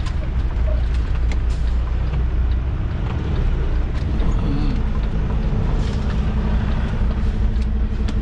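Semi-truck diesel engine running steadily at low speed during a slow turning manoeuvre, a deep continuous rumble with a few faint clicks.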